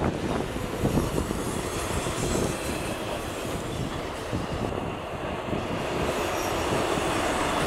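Freight train wagons rolling past close by: a steady rumble of steel wheels on the rails, with clacks as the wheels cross rail joints.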